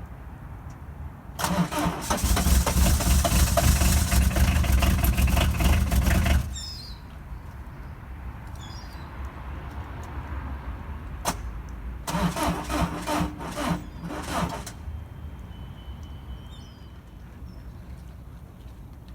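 The Citroën ZX TD's cold 1.9 XUD9 turbo-diesel being cranked by its starter at −6 °C: a long crank of about five seconds, then a click and a second, shorter crank of about two and a half seconds, each falling away again without the engine catching.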